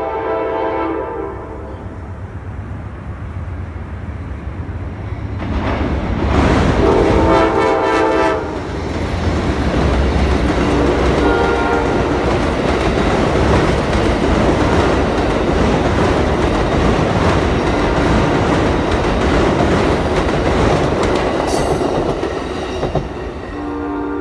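Amtrak passenger train sounding its horn, with a longer, louder blast about six seconds in. The cars then pass close by with a steady, loud rumble of wheels on the rails. The horn sounds again briefly near the end.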